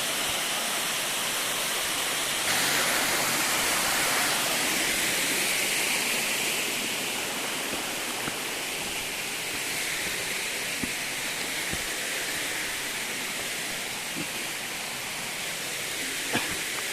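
Steady rush of a forest waterfall's water falling several metres onto rock and into its pool, getting a little louder about two and a half seconds in.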